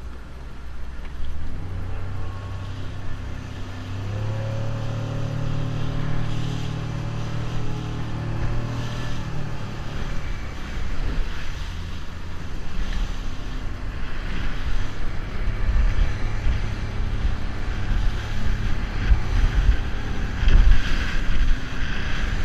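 Small boat's outboard motor running, picking up revs about four seconds in, with wind buffeting the microphone and water noise beneath.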